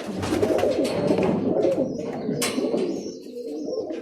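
Several Birmingham roller pigeons cooing together in the loft, overlapping calls throughout, with a brief rustle about two and a half seconds in.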